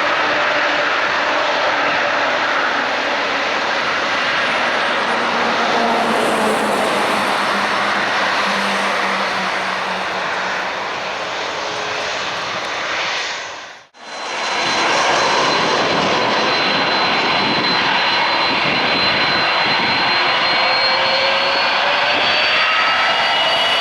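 Airbus A330-300's General Electric CF6 turbofan engines running loud, a steady jet roar with whining tones that slide down in pitch. About halfway through the sound drops out abruptly for a moment, then returns with the engine whine slowly rising in pitch.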